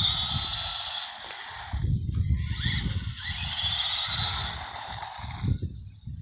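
Helion Animus RC truck's electric motor whining under throttle with its tyres rolling on pavement, in two main bursts with a rising whine as it speeds up, then a shorter burst near the end.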